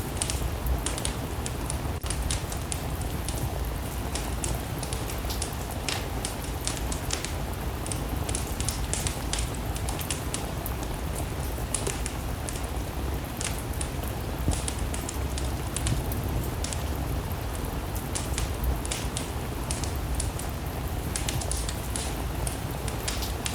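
Wood fire crackling with frequent sharp pops, over a steady hiss and low rumble of rain.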